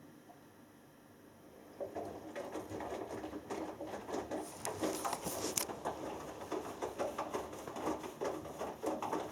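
Hoover Dynamic Next washing machine drum starting to turn about two seconds in: wet laundry and water sloshing and tumbling in the drum during the wash phase, with small irregular knocks.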